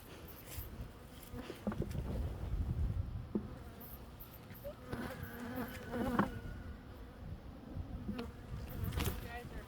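Honeybees buzzing. A bee's buzz swells close to the microphone about five to six seconds in.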